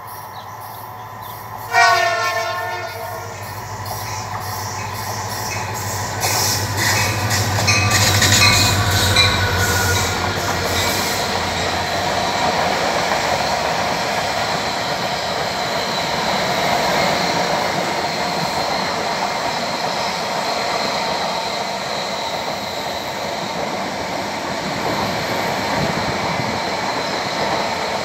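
Passenger train's diesel locomotive sounds one short horn blast about two seconds in, then its engine grows louder as it comes close and passes. A steady rumble and clatter of the passenger cars rolling by follows.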